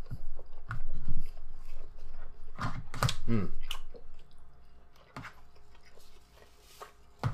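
Close-miked chewing and mouth noises of a person eating a soft enchilada, with scattered clicks of a fork against a plastic takeout tray. There is a short falling hum about three seconds in.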